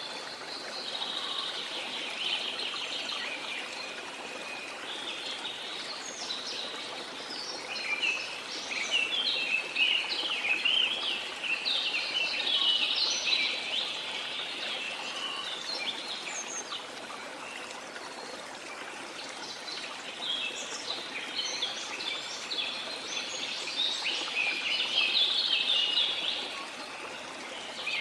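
Many birds chirping and calling in busy flurries, high-pitched, over a steady rush of falling water. The chirping thickens about a third of the way in and again in the last third.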